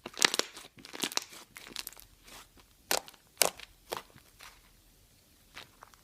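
Hands squeezing and poking slime, giving irregular crackling, crunchy snaps in short clusters, the loudest near the start and around three seconds in.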